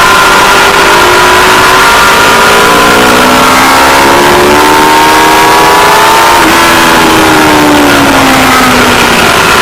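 Aprilia Tuono V4 Factory's V4 engine running hard at track speed, under heavy wind rush on the microphone. The engine note holds steady, climbs for a few seconds, then falls away over the next few before steadying again near the end.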